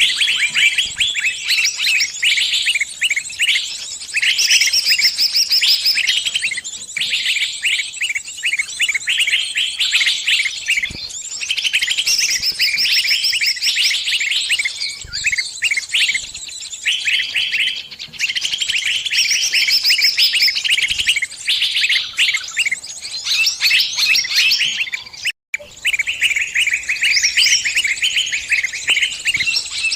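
Small bird giving rapid, shrill distress chirps in dense, almost unbroken runs: the calls of a trapped bird calling other birds for help. A brief break comes about 25 seconds in.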